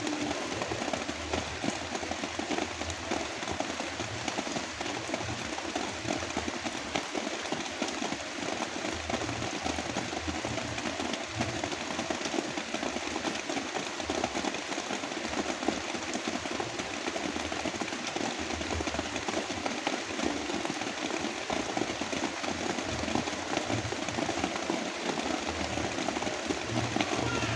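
Heavy rain falling steadily, layered with a low brown-noise rumble.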